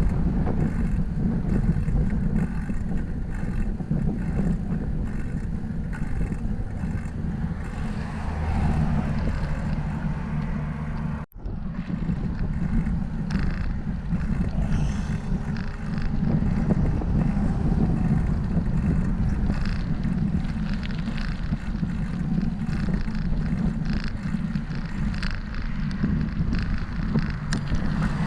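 Wind buffeting the microphone of a camera carried on a moving bicycle: a steady, loud rumble. The sound cuts out for a split second about eleven seconds in.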